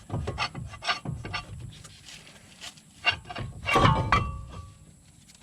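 Knocks and clinks of tools and metal parts being handled, as in brake work on a car's front wheel. The knocks are irregular, the loudest cluster comes just before four seconds in, and a short metallic ring follows it.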